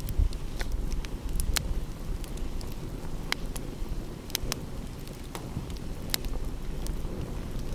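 Wood fire crackling with irregular sharp pops, over a steady low rumble of wind and sea.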